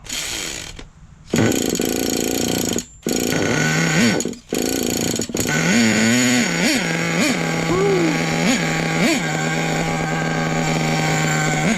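Nitro RC truck's glow engine running at a raised idle, with several short throttle blips in the middle. It is loading up, not burning its fuel fully.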